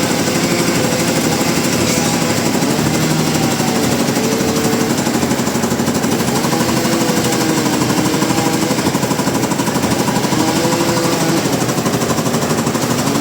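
Sawmill machinery running loud and steady with a rapid, even pulsing, over a whine that wavers up and down in pitch.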